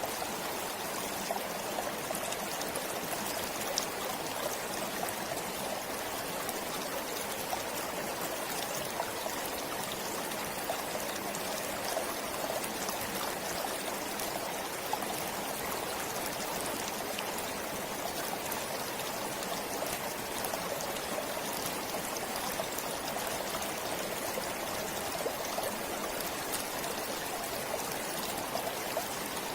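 A forest stream flowing steadily, water trickling and splashing over stones, with small drips and splashes dotted through it.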